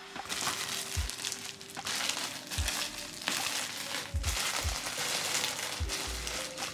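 Maximus vacuum cleaner working over a mattress: a rough rushing noise that swells and dips every second or so, with a few soft thumps.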